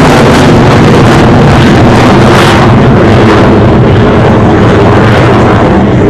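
F-16 fighter jet's single engine, a very loud roar that overloads the recording. After about two and a half seconds the hiss fades while the low rumble continues, as the jet moves away.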